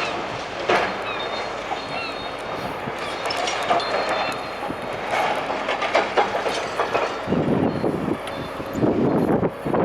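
Demolition machinery breaking down a concrete building: continuous crunching and clattering of concrete and metal, with sharp knocks and short metal squeals. The crunching grows louder and denser from about seven seconds in.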